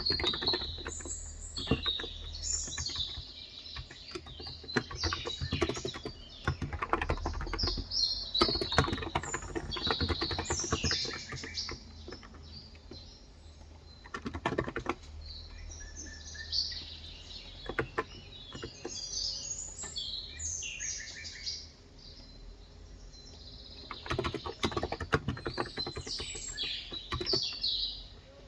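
Typing on a Cox Endeavor electrostatic-capacitive (contactless) tenkeyless keyboard with 35 g keys, in bursts of keystrokes with pauses between them. Small birds chirp and sing throughout.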